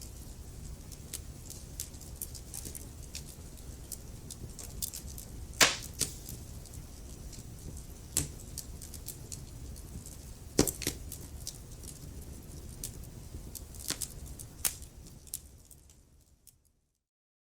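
Wood fire crackling in a fireplace: irregular sharp pops and snaps over a low steady rumble, the loudest pops about six and eleven seconds in. The sound fades out near the end.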